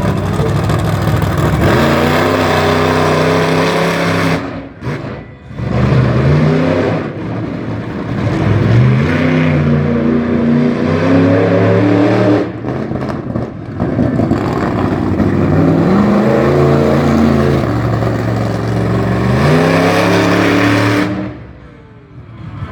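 Big monster-truck engine revving hard over and over, its pitch climbing and falling about five times, with brief lulls between the runs.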